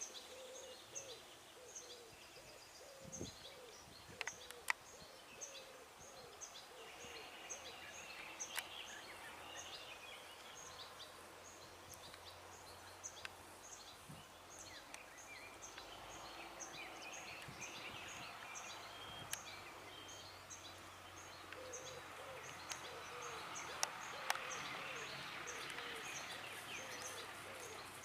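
Several birds singing in the open: a high short chirp repeats steadily a few times a second, other song phrases come and go, and low notes repeat in runs, with a few sharp clicks.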